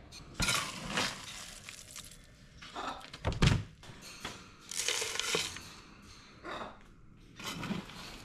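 A bird feeder being filled and handled: irregular knocks and rattling clatters of dry bird food, with the loudest around a second in, about three and a half seconds in and near five seconds.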